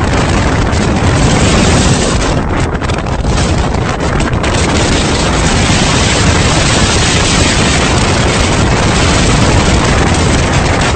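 Strong wind of an approaching desert sandstorm blowing across the microphone: a loud, steady rushing roar with gusty swells.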